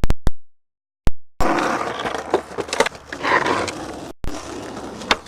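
The sound drops out completely for about a second and a half, broken only by a few sharp clicks. Then a skateboard rolls over rough concrete, its wheels rumbling with scattered clacks and knocks.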